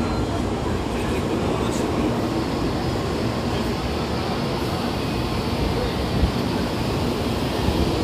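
Shinkansen train pulling in alongside the platform: a steady rushing rumble of wheels and air as the cars slide past.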